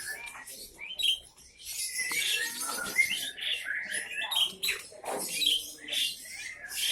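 Many caged songbirds chirping and calling at once: a dense mix of short, high, overlapping chirps and quick twittering notes.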